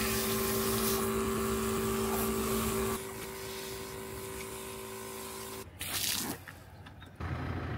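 Small battery-powered portable shower pump running with a steady hum while water sprays out, rinsing sand off. About three seconds in the spray stops and the pump hums on alone until it cuts off, followed by a brief rush of noise.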